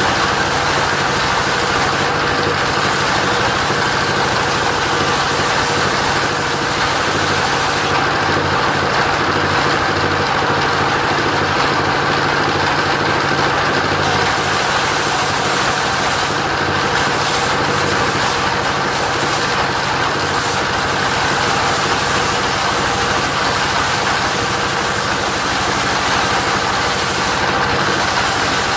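Mobile sawmill running steadily, its engine driving the saw with a constant, unbroken drone.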